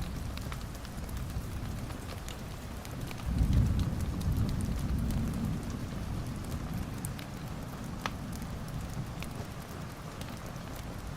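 Wood fire crackling in a fireplace, with scattered sharp pops over a steady hiss. A low rumble of the flames swells suddenly about three seconds in and slowly fades.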